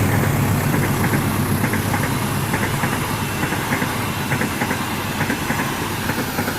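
Diesel-hauled passenger train running past, its low rumble slowly fading. Short high pings in pairs repeat a little faster than once a second over the running noise.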